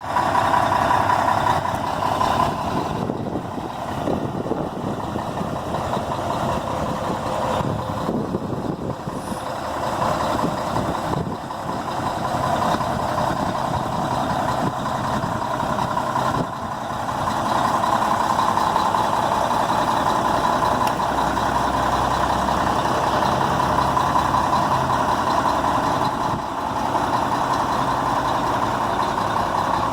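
Scania T113 360 truck's six-cylinder diesel engine running steadily, growing louder about halfway through.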